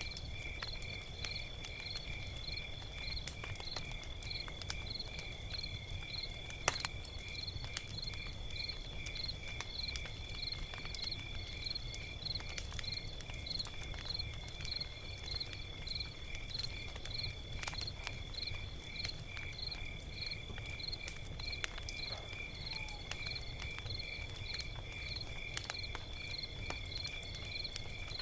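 Log fire crackling, with scattered sharp pops over a low rumble. Over it runs a steady high-pitched chirping, about two chirps a second, like crickets.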